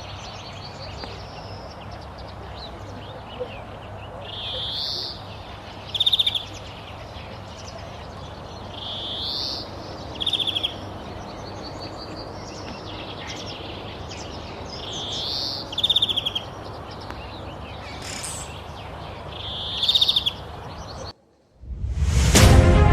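A bird calls four times, roughly every five seconds. Each call is a rising note followed by a fast run of short notes, over a steady outdoor hiss. Shortly before the end the sound cuts out for a moment and music begins.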